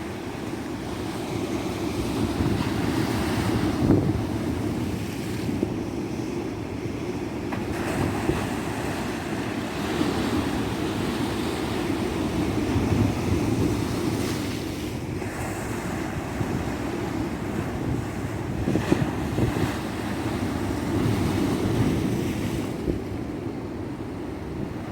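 Ocean surf on a tropical beach: waves breaking and washing ashore in a steady rush that swells and eases every few seconds.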